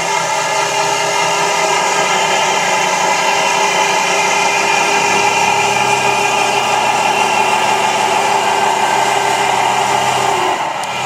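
Radio-controlled construction machine's motors running with a steady whir, dipping briefly near the end.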